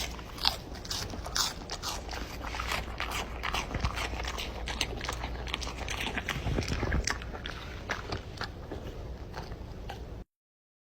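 An animal chewing something crunchy: irregular crunching and clicking bites that cut off abruptly about ten seconds in.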